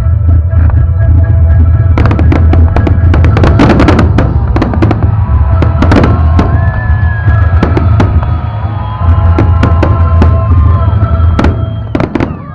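Fireworks exploding, with many sharp bangs and crackles in quick succession, over loud music.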